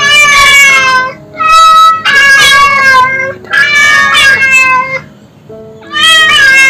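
Domestic cat meowing repeatedly, about four drawn-out, loud meows with short pauses between them.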